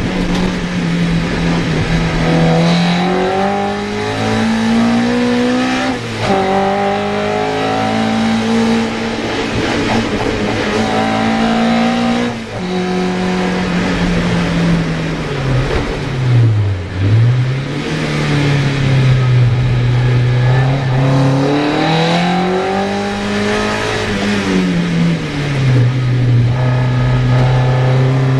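Mazda MX-5's four-cylinder engine driven hard on a hillclimb run, its pitch climbing in steps through the gears, then dropping off for corners and picking up again several times, with one sharp dip and recovery a little past halfway.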